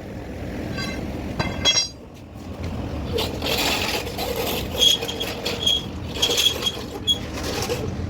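Metal clinking with a ringing tone, twice in the first two seconds. Then a rough, noisy hiss with a few short high whistling tones runs through the rest.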